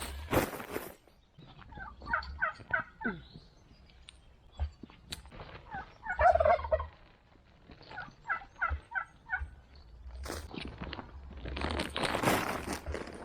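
A bird calling in three quick runs of short stuttering calls, with rough scraping noises at the start and again near the end.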